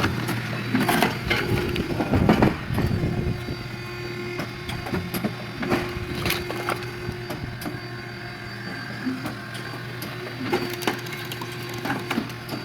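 Automatic firewood splitter running with a steady hum while logs crack and splinter apart. The loudest splitting comes about two seconds in, with more cracks around six seconds.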